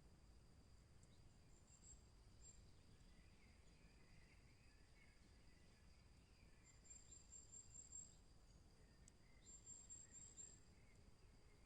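Faint forest ambience: distant songbirds singing, with warbling phrases and two high, thin trills about seven and nine and a half seconds in, over a steady high-pitched drone and low background rumble.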